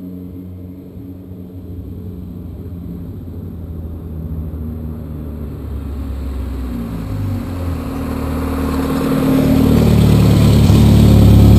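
BMW E30 M3 Cecotto's 2.3-litre S14B23 four-cylinder engine, fitted with a carbon airbox and tubular exhaust manifold, running and growing steadily louder, loudest near the end.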